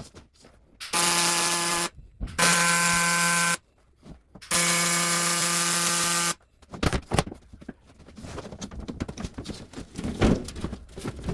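Welding arc buzzing in three separate bursts of one to two seconds each, steady in pitch with a hiss over it, followed by a few sharp clicks and knocks of metal being handled.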